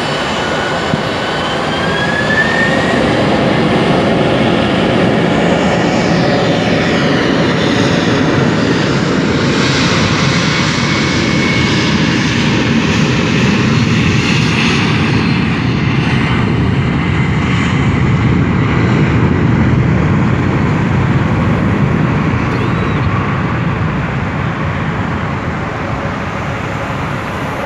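Jet engines of a Boeing 767 freighter as it flies past: a loud, steady roar that builds about two seconds in, holds, then slowly fades over the last several seconds.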